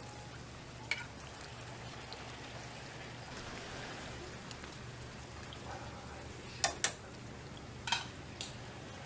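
Hotteok frying in shallow oil on a flat griddle, a steady sizzle. Metal tongs click sharply a few times, twice in quick succession about two-thirds of the way through.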